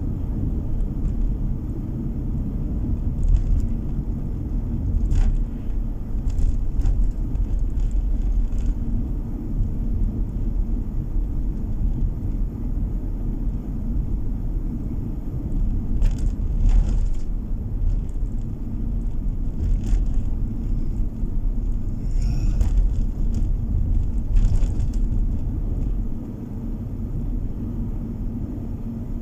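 Car driving on the road, heard from inside the cabin: a steady low rumble of engine and tyre noise, with a few brief ticks or rattles. It gets a little quieter near the end.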